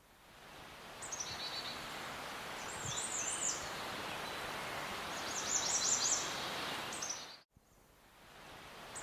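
Outdoor ambience of small birds chirping in short, quick bursts over a steady background hiss. It cuts out abruptly about seven and a half seconds in, then comes back a second later.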